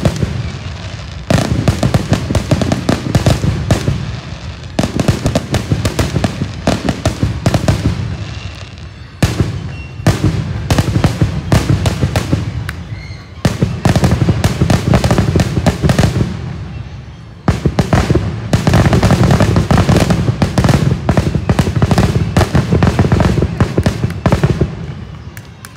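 Aerial fireworks shells bursting in a loud, continuous barrage: dense rapid cracks and bangs over a deep rumble. It comes in waves that each start suddenly and fade over a few seconds, as in a show's closing barrage.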